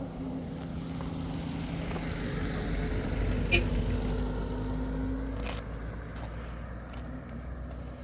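A motor vehicle engine running with a steady low hum that grows louder toward the middle and then eases off, with a single sharp click about three and a half seconds in.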